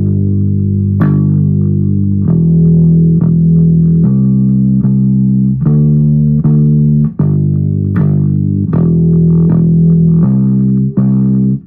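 Bass guitar playing the song's four-note G–E–C–D bass line, each note plucked several times in quick succession before moving on to the next.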